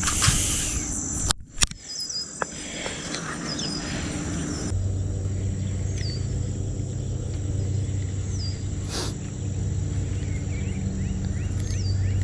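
Insects droning on a steady high note, with a bird repeating a short downward-slurred whistle every few seconds. A steady low hum joins about five seconds in, and there is a single sharp click near the end.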